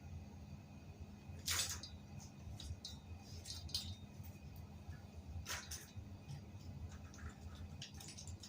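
A few light clinks and scrapes of things being handled, the two clearest about a second and a half in and about five and a half seconds in, over a low steady hum.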